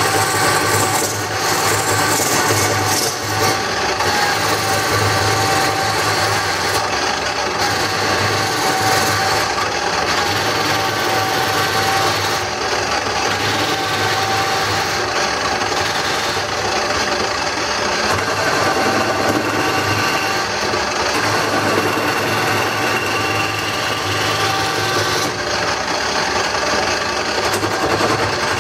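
Wood lathe running steadily while a turning tool scrapes and cuts the spinning wooden bowl blank, a continuous rasping sound over the motor's steady hum.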